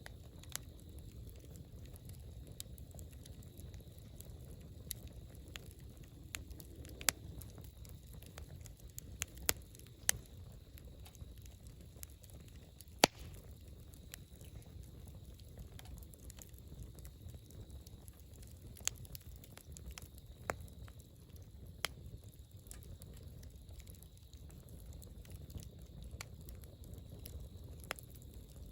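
Wood bonfire crackling, with scattered sharp pops, the loudest about 13 seconds in, over a low steady rumble.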